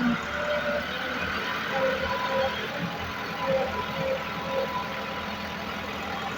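Loader excavator's engine running steadily while working, with a few short faint tones over it.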